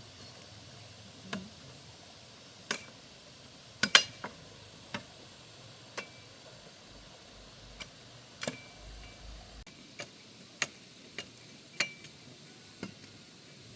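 A blade chopping at wood: about fifteen irregular sharp strikes, some with a short metallic ring, the loudest pair about four seconds in.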